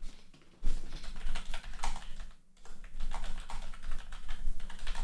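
Typing on a computer keyboard: quick runs of keystrokes, with a short break about two and a half seconds in.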